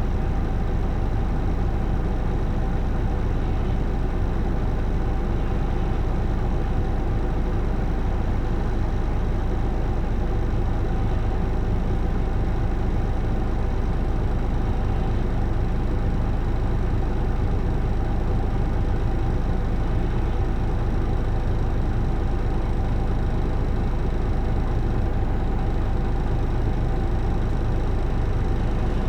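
Isuzu Erga (PJ-LV234L1) city bus heard from inside the cabin: its inline-six diesel engine running steadily with a low drone and a few steady tones, with no change in pace.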